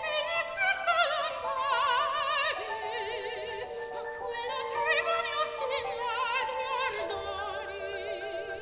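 Classical soprano singing with a wide vibrato over piano accompaniment.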